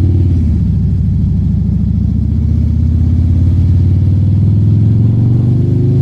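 Motorcycle engine running while riding, its pitch dipping slightly near the start and then rising slowly as it accelerates.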